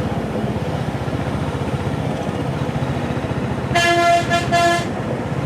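Royal Enfield Hunter 350's single-cylinder engine running steadily under the rider, with a vehicle horn giving three short toots about four seconds in.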